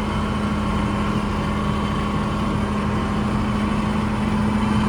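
A 1977 farm tractor's engine running steadily while plowing snow, a constant low hum with no change in speed.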